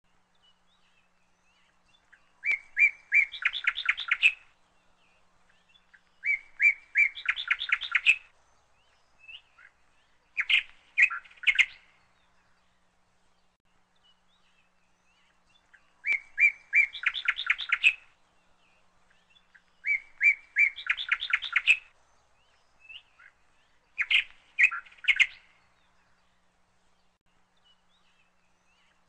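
A small bird singing in repeated short phrases: each is a couple of quick chips followed by a fast run of high chirping notes, coming back roughly every four seconds with quiet gaps between.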